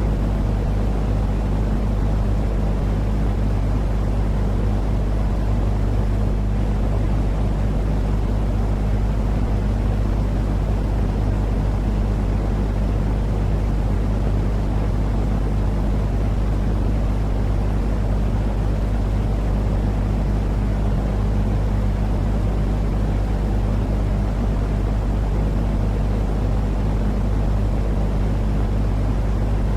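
Steady, unchanging white-noise track for soothing babies, heavy in the low range like a deep rumble, with a constant low hum running under it.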